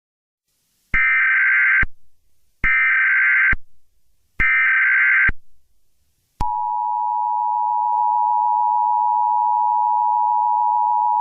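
Emergency Alert System tones: three short warbling SAME data header bursts, then the EAS attention signal, a steady two-tone beep near 853 and 960 Hz that holds for about five seconds and cuts off suddenly.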